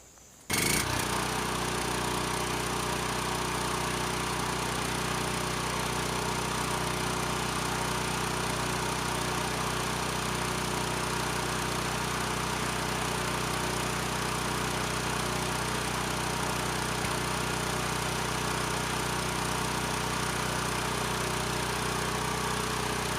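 Sportsman 9000-watt portable generator's engine running steadily at constant speed. The engine runs but the generator is not putting out the right voltage, a fault that cleaning the slip rings and brushes has not cured.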